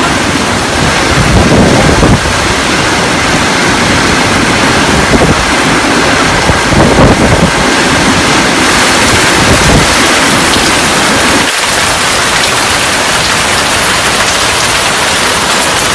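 Heavy rain pouring down in a storm, with strong wind gusting across the phone's microphone several times.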